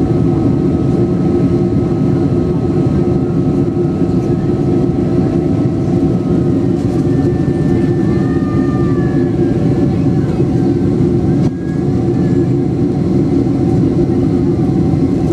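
Steady, loud cabin noise of a Boeing 767-300 climbing after takeoff: jet engines and rushing air heard from inside the passenger cabin, with a brief dip about eleven seconds in.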